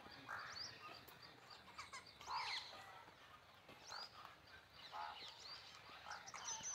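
Faint, scattered chirps and short calls of small birds, about one every second or so, some sliding in pitch.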